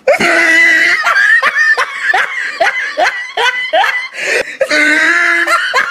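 A person laughing hard in repeated high-pitched bursts, about three a second, with a longer held note near the end.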